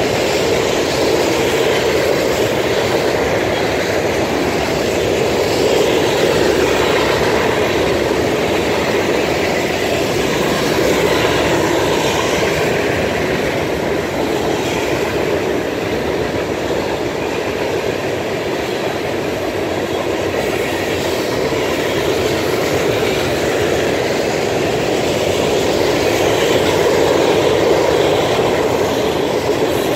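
A train's cars rolling past, a steady, continuous noise of wheels on rails.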